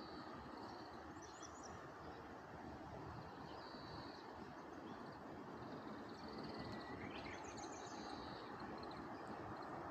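Wild birds calling: short high-pitched trills and chirps repeating every second or two, with a quick cluster of chirps and a brief falling note about seven seconds in, over a steady outdoor background hiss.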